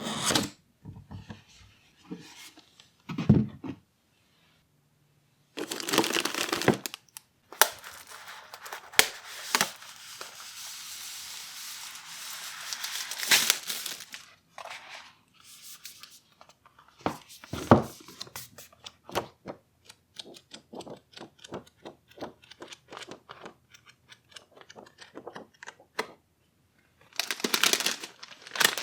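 Plastic packaging being crinkled and torn open by hand in irregular rustling bursts, with short sharp clicks of small plastic parts being handled between them.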